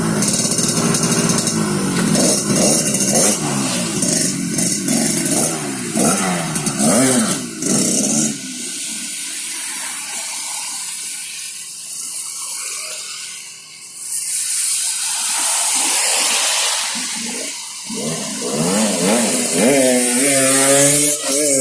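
Yamaha RX-King's two-stroke single-cylinder engine revving in repeated blips, its pitch rising and falling, then a long stretch of steady rain hiss, with the revving coming back near the end. The bike is being tried out after new clutch plates and a 33-tooth rear sprocket were fitted to cure clutch slip.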